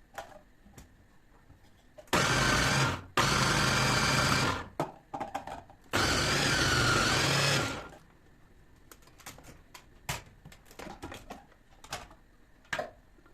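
A small electric kitchen motor, blender or chopper type, switched on in three short bursts of one to two seconds each, with light clicks and knocks between them.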